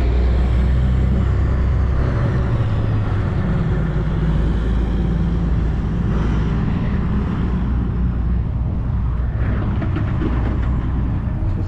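Wind buffeting an action camera's microphone while an Apollo Go electric scooter is ridden along: a steady low rumble over road and tyre noise.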